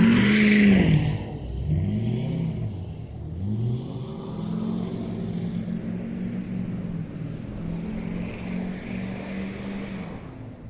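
Vehicle engine revving up and down several times in quick succession, then running at a fairly steady higher speed, as when spinning donuts in deep snow.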